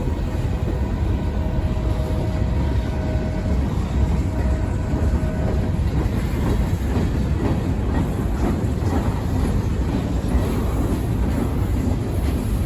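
Freight train rolling past: a steady heavy rumble of wheels on rail, with the wheels clicking over rail joints more densely in the second half.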